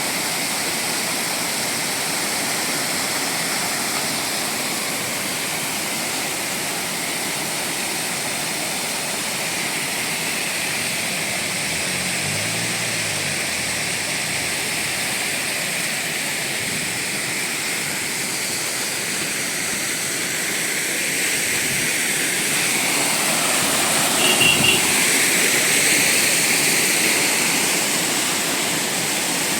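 Floodwater rushing in a swollen river: a steady, noisy wash of water that swells louder for a few seconds about three-quarters of the way through.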